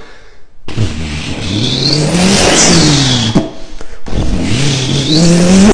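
Car engine revving twice: the pitch climbs for about two and a half seconds, drops off briefly, then climbs again near the end.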